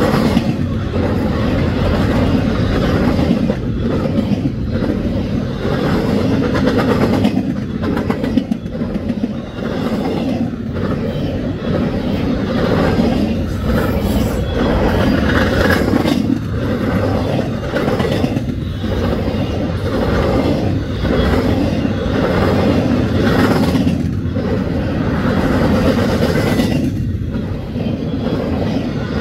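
Loud, steady rumble of an empty freight train's intermodal well cars rolling past, steel wheels on rail, with repeated clacks as the wheel sets pass.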